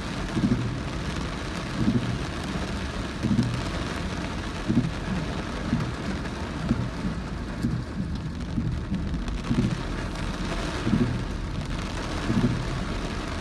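Heavy rain on a moving car, heard from inside the cabin, with a low thud about every one and a half seconds from the windscreen wipers.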